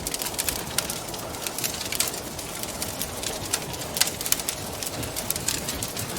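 Wood fire crackling, with irregular sharp pops (the loudest about 4 seconds in) over a steady rush of wind.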